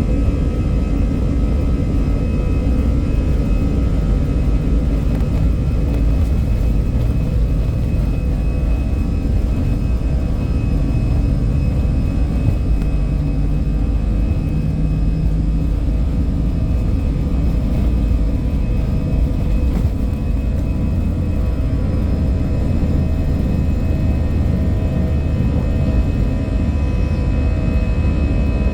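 Airbus A320's jet engines running steadily, heard from inside the passenger cabin: a loud low rumble with several steady whining tones above it.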